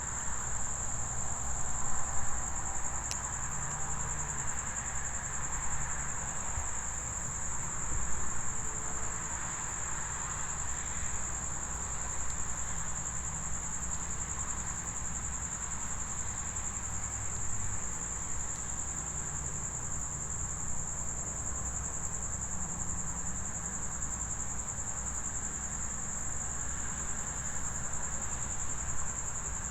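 Steady high-pitched chorus of crickets, one unbroken shrill tone, over a low background rumble.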